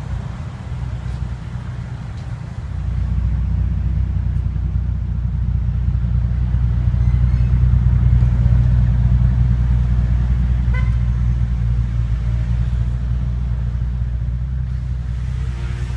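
Mercedes-AMG S-Class coupe's engine and exhaust running at low revs as the car rolls slowly away. It is a deep, steady drone that gets louder about three seconds in.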